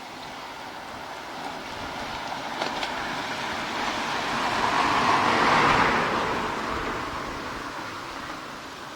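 A vehicle passing close by: a rushing noise builds for about five seconds, peaks, then fades away.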